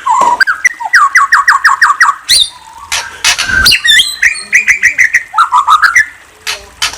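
A songbird singing in varied phrases: quick runs of short repeated whistled notes, sweeping whistles and harsh squawky calls, with brief pauses between phrases.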